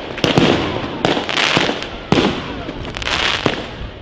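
Fireworks display: aerial shells bursting in a string of sharp bangs, roughly two a second, each followed by a noisy tail.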